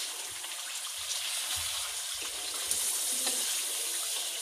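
Chicken pieces frying in an oily masala in a non-stick pan, a steady sizzle, with soft knocks and scrapes as a spatula stirs through it. The masala is being fried down (bhuna) with the chicken.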